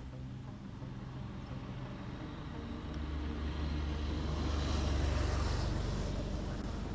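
Honda NC700X motorcycle riding, its parallel-twin engine running steadily under road and wind noise that swell to their loudest about five seconds in and then ease off.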